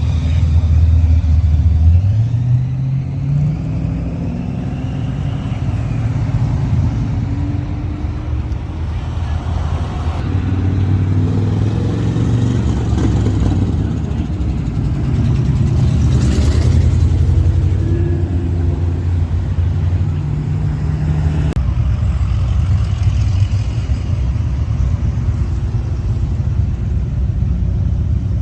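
Car engines running low and steady as vehicles roll slowly past, with one engine climbing in pitch as it speeds up about two seconds in.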